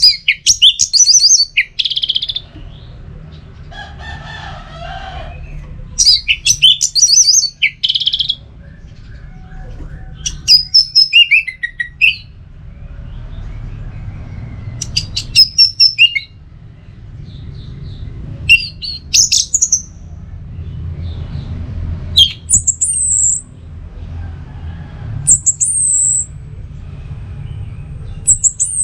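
Orange-headed thrush singing: loud, high phrases of rapid whistled notes and trills, some sweeping downward, each lasting one to two seconds and repeated every few seconds, over a faint low rumble.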